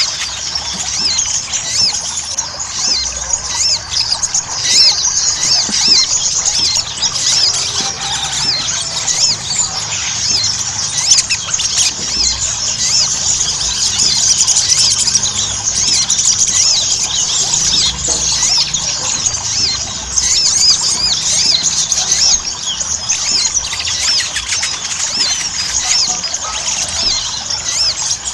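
Ruby-cheeked sunbird (sogon) singing a continuous, rapid, high-pitched twittering song of short chirps, with no pauses.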